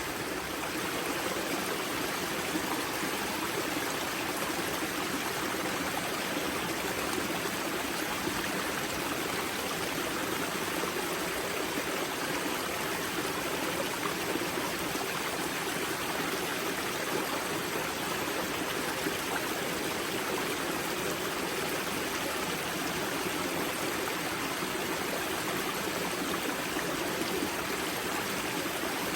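Water of a small mountain river rushing and splashing over stones just below its spring, a steady, even rush without change.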